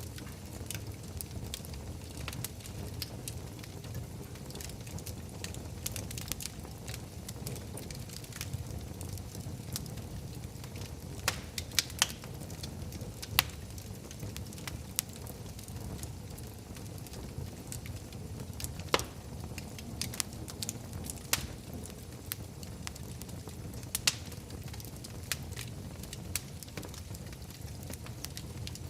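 Wood fire burning in a fireplace: a steady low rumble of flames with scattered sharp crackles and pops, a few of them louder snaps.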